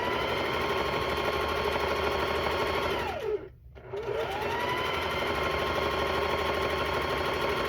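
Electric sewing machine stitching a long seam: the motor winds up with a rising whine and runs steadily, winds down and stops for a moment a little past three seconds in, then starts again and runs steadily.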